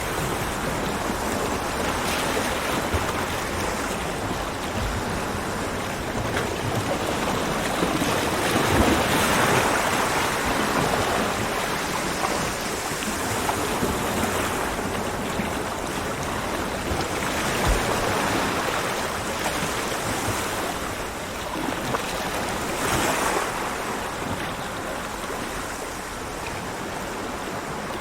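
Ocean waves breaking and washing on a beach, a continuous surf with slow swells as each wave comes in, one of the largest about a third of the way through.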